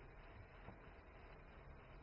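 Near silence: a faint steady hiss and low hum from the recording, with one faint click.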